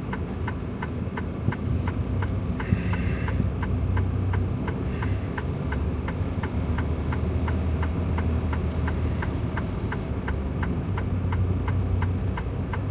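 Rapid, evenly spaced clicking of a semi truck's turn-signal or hazard flasher, heard inside the cab of a Freightliner Cascadia, over the steady hum of the idling diesel engine.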